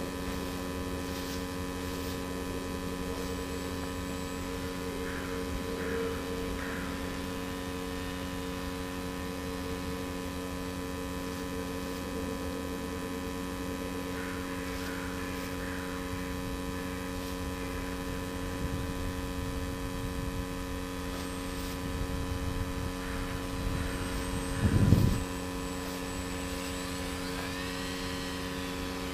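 Steady drone from an RC model airplane's electric motor and 7x5-inch pusher propeller in flight at reduced throttle, with a short low rumble about 25 seconds in.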